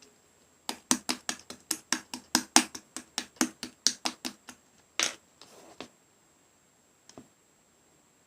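Purple slime being pressed and squished by hand, giving a fast run of sharp popping clicks, about five a second for some four seconds. A stronger pop follows, then a brief squishy rustle and one last click.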